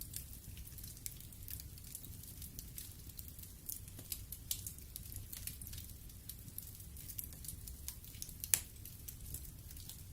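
Wood fire burning in a fireplace: frequent small crackles and pops over a low steady rumble of the flames, with one louder pop about eight and a half seconds in.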